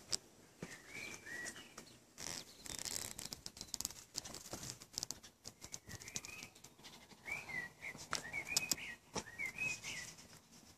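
Birds chirping in short notes that rise and fall, a few about a second in and a run of them from about six seconds in, over scattered faint clicks and rustling.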